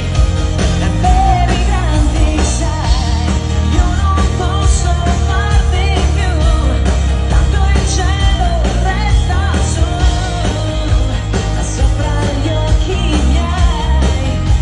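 Live pop song performed by a band: a woman sings the lead melody over heavy bass, drums and cymbals, loud and continuous.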